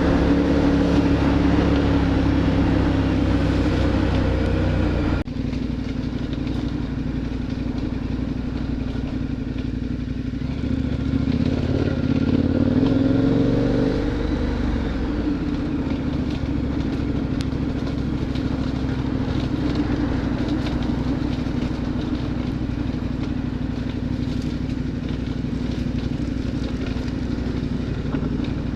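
KTM adventure motorcycle's V-twin engine running under way, with a steady even drone and road noise; the level drops abruptly about five seconds in, and the engine pitch rises and falls again around the middle.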